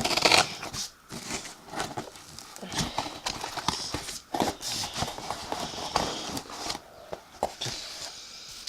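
Cardboard box being cut and pulled open by hand: packing tape and flaps scraping, crackling and tearing in irregular bursts, with a loud rip right at the start.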